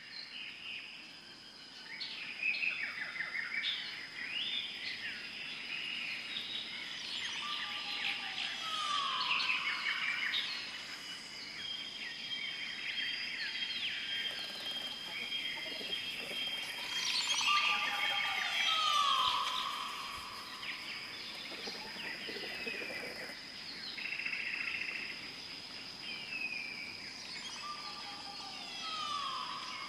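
Many small birds chirping and calling over a steady high tone. A whistled call that holds a note and then falls in pitch comes three times, about every nine seconds.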